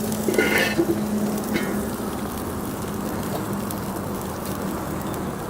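Chicken legs sizzling on a propane gas grill, a steady hiss, with a low steady hum underneath.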